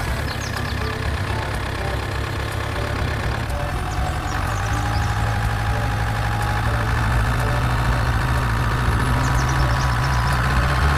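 A motor running steadily with a low, even hum that slowly gets a little louder, with faint short high chirps above it.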